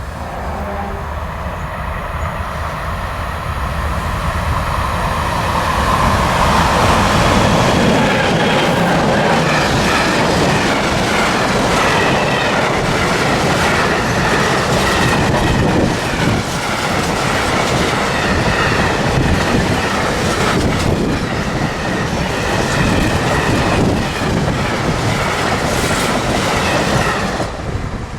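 A train passing close by, its wheels clattering over rail joints with some wheel squeal. The sound builds over the first few seconds, holds steady as the wagons roll past, and drops off suddenly near the end.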